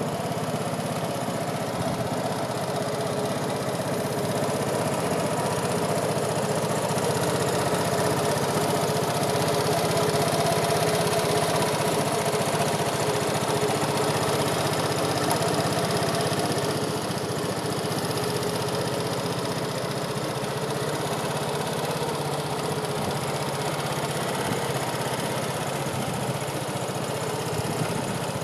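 Vespa Primavera 125's single-cylinder four-stroke engine idling steadily, a little louder through the middle stretch and settling back about seventeen seconds in.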